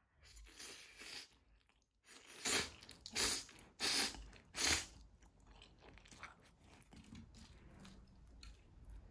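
Close-up eating sounds of a mouthful of tomato cream spaghetti being chewed. There are four loud short bursts about two to five seconds in, then softer chewing.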